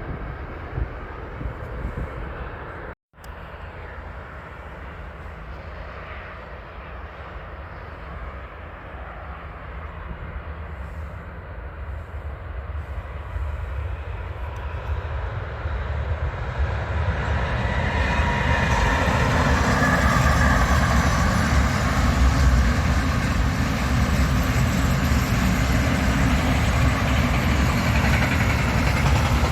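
A train approaching on the line, its rumble and rail noise growing steadily louder over about ten seconds and then staying loud as it comes by. A brief gap of silence about three seconds in.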